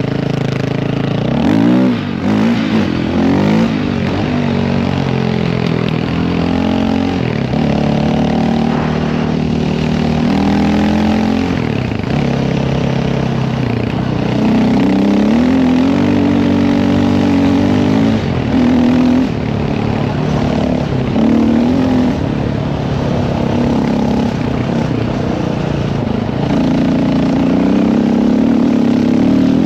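Dirt bike engine under way, its revs climbing quickly about a second or two in, then holding steady and dropping back several times as the rider works the throttle through the gears.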